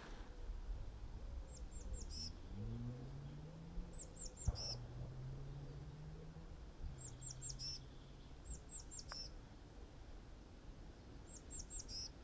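A small songbird repeating a short, high phrase of three quick falling notes and a lower closing note, about five times, over a faint low hum.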